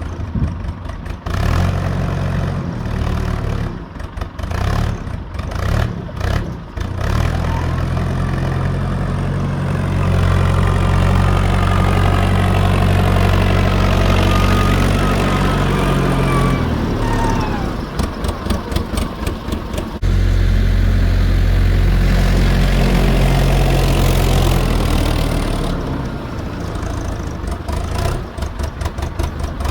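Fordson E27N tractor's Perkins P6 six-cylinder diesel engine running, starting at a slow, pulsing idle, then revving up and holding high revs for several seconds, easing off briefly and revving up again before dropping back to a slow idle near the end.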